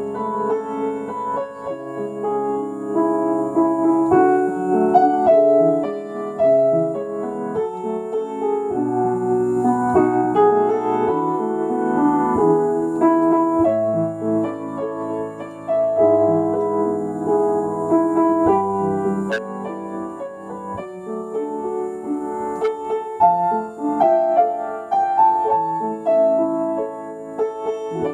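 Solo piano playing a slow, tender elegy: sustained chords under a singing melody line.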